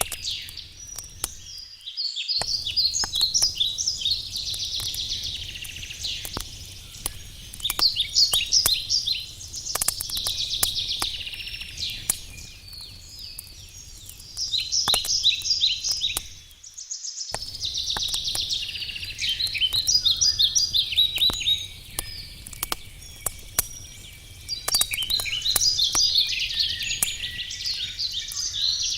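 Wood campfire crackling and popping, with small birds singing rapid high trilled phrases every few seconds. The sound cuts out completely for a moment twice.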